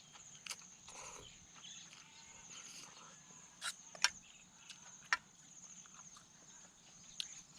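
Insects trilling in a steady high-pitched drone, with a few sharp clicks and cracks over it about halfway through and once near the end.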